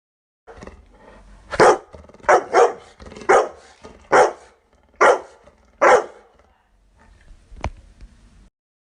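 A dog barking: seven short, loud barks about a second apart, two of them in quick succession, followed by a single sharp click.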